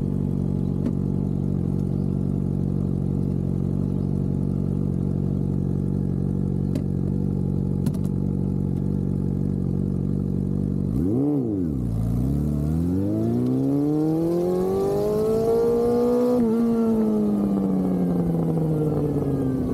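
Honda CB400SF inline-four motorcycle engine idling steadily. About eleven seconds in it revs once quickly, then climbs slowly in pitch for about four seconds and winds back down.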